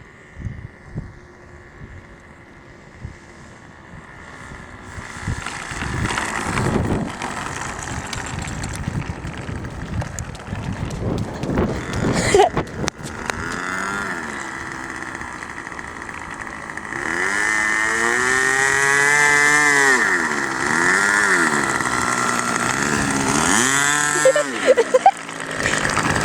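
Model airplane's Super Tiger two-stroke glow engine running: faint at first, growing louder from about five seconds in, with its pitch rising and falling again and again in the second half as the plane comes in close.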